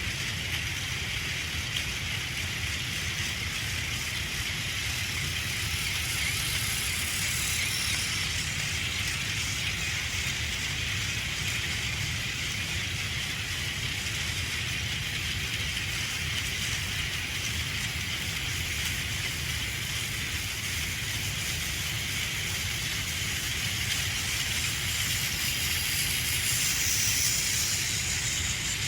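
Battery-powered Plarail toy train (Thomas the Tank Engine pulling a long train of cars) running on plastic track: a steady motor whir with the clatter of small plastic wheels over the track joints. It grows a little louder near the end.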